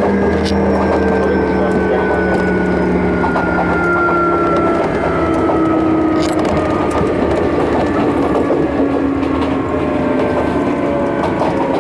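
Sotetsu New 7000 series electric train's Hitachi GTO inverter and traction motors, heard from inside the car over rail running noise. Several whining tones slowly fall in pitch as the train slows. There are a couple of short clicks, one near the start and one about six seconds in.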